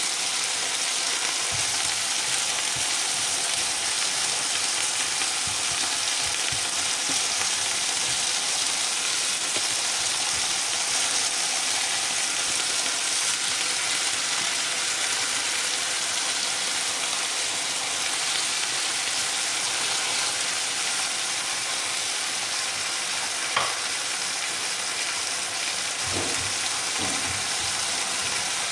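Rump steak, asparagus and onions sizzling steadily in a frying pan, with a single sharp click a little over three-quarters of the way through.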